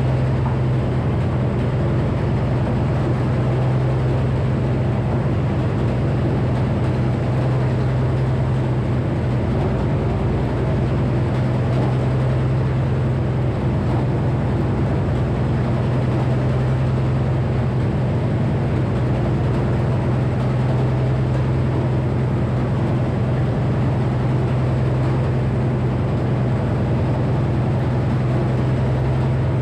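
Frick sawmill with its 48-inch circular saw, the power unit running at a steady, even hum with no change in pitch or load.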